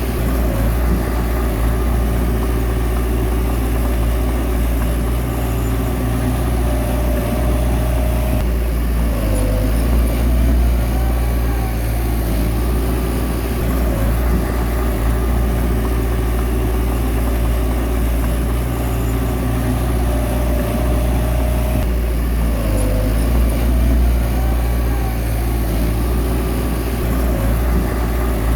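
Heavy bulldozer diesel engine running steadily, its note shifting briefly twice.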